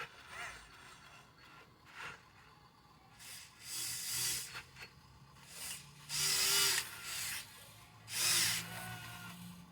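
A small motor whirring in three short bursts, the longest about a second long.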